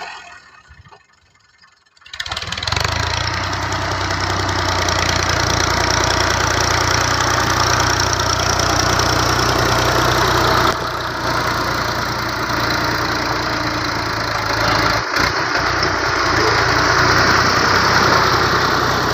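Tractor diesel engine running steadily, cutting in abruptly about two seconds in after a moment of near silence.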